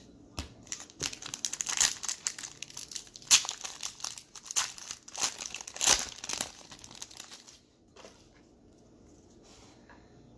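A trading card pack's foil wrapper crinkling and being torn open, in quick bursts of crackle for about seven seconds, then stopping.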